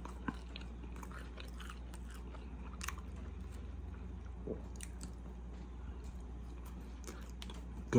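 A person chewing a mouthful of taco with the mouth closed: faint, scattered mouth clicks and smacks over a steady low hum.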